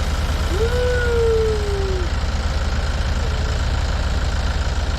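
Tractor engine idling steadily with an even low beat. About half a second in, a single clear tone rises and then slowly falls over about a second and a half.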